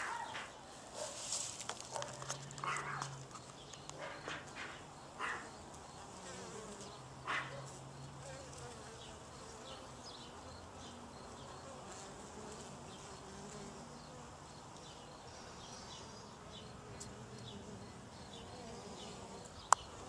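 Honeybees buzzing around their nest, a steady drifting hum, with some rustling in the first few seconds and one sharp click near the end.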